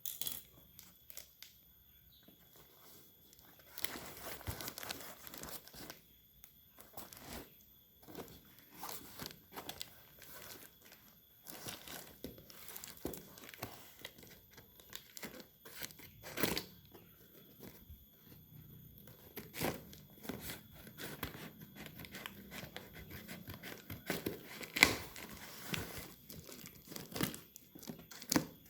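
Packaging being torn open and crinkled by hand while an aftermarket motorcycle belly pan is unboxed: irregular rustling and tearing with scattered small clicks and a few sharper knocks.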